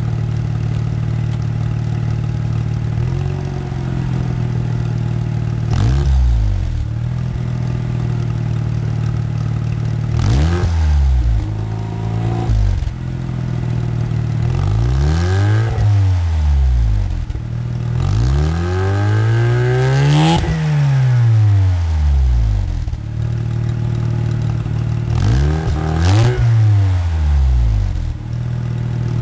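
Mazda RX-7 FC3S's 13B twin-rotor engine idling and being blipped through several free revs, each climbing and dropping back to idle, the longest and highest about two-thirds of the way through and a quick double blip near the end.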